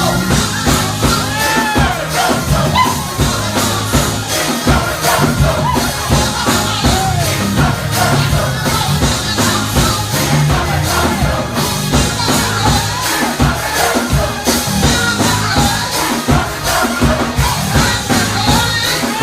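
Live gospel music: a choir singing over a full band with driving bass and drums, with crowd noise mixed in.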